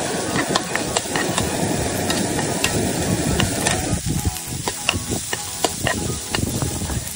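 Chopped onions and green capsicum sizzling in a non-stick frying pan while a steel spoon stirs them, with frequent clicks and scrapes of the spoon against the pan. The sizzle thins out suddenly about four seconds in, and the spoon's clicks stand out more.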